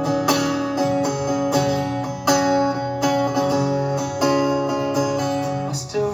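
Acoustic guitar strumming chords between sung lines of a live pop song, with a steady strum about twice a second.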